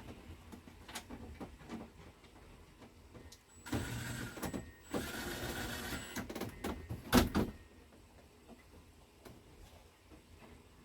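Small electric motor whirring in two short bursts, the second a little longer, followed by a sharp clatter, with scattered light clicks and knocks of handling around it.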